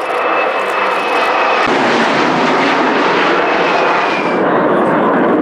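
Military jet aircraft engine noise: a loud, steady roar that swells at the start and fills out lower about a second and a half in, with a thin high whine over it at first.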